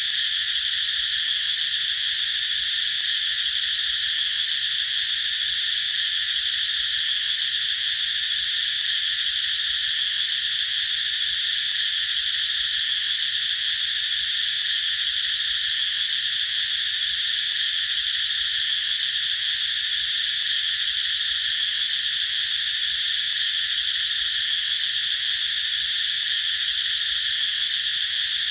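Cicadas singing in a continuous, steady high-pitched drone with no pauses.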